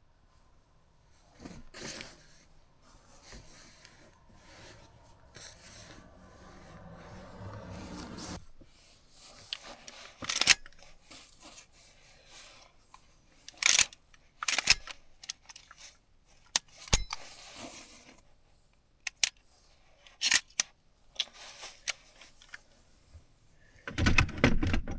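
Rustling and handling noises from someone settling bedding and gear, with a swelling rustle that stops abruptly, several sharp clicks and knocks, and a louder burst of rustling near the end.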